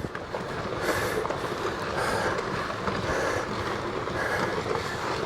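Rockfall on a volcano slope: a continuous rumble of rocks tumbling, with many small knocks and clatters of stones hitting each other.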